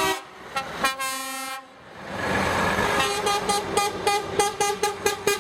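Truck horns sounding as vehicles pass: one held blast about a second in, then a rapid series of short toots, several a second, over the noise of passing vehicles.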